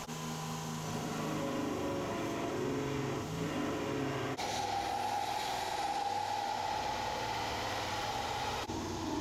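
Belt grinder running, a 40-grit belt grinding the steel of a forged knife blade, heard as short clips joined by sudden cuts, with the motor's hum shifting in pitch.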